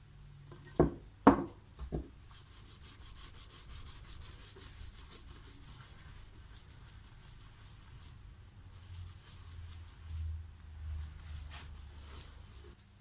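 Three sharp knocks, then abrasive rubbing in quick, even back-and-forth strokes, several a second, in three spells with short pauses, as when a clamp part is sanded by hand.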